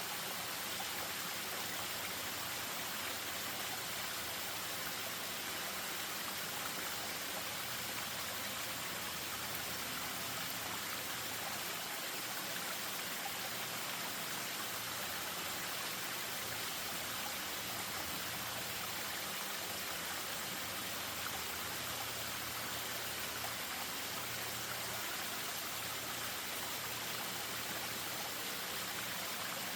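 Spring-fed stream spilling over a small waterfall, a steady rush of water without breaks.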